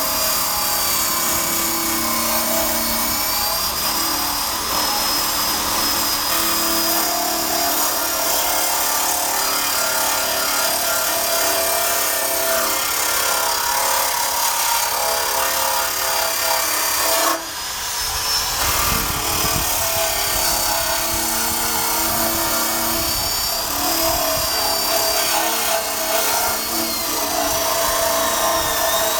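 Power wire brush running steadily with a whine and scrubbing rust and paint off the steel frame of a 1965 Honda Cub, briefly letting off about two-thirds of the way through.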